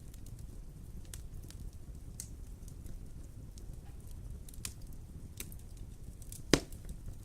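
Wood fire burning in a fireplace: a steady low rumble with scattered crackles, and one loud pop about six and a half seconds in.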